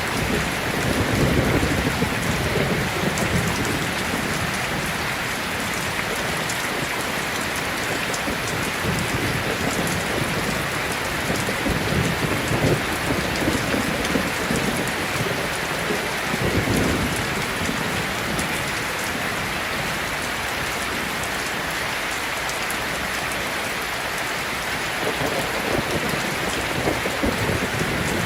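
Heavy rain falling steadily, with low rolls of thunder swelling up several times: near the start, twice in the middle and again near the end.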